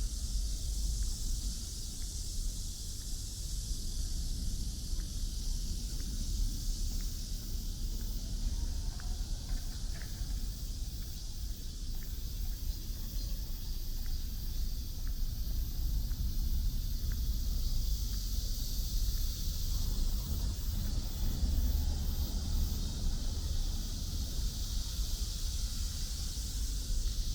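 Outdoor walking ambience: a low wind rumble on the microphone under a steady high hiss, with a few faint clicks.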